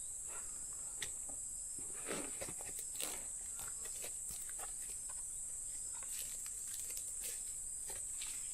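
A steady, high-pitched drone of forest insects, most likely crickets, with scattered rustles and light knocks of someone moving around camp.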